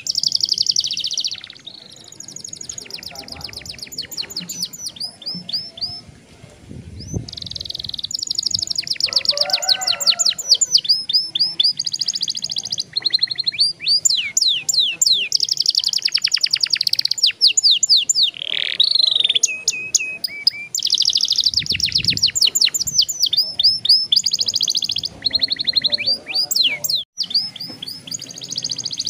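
Young domestic canary singing in long rolls: fast trills of rapidly repeated high notes, phrase after phrase with only brief pauses.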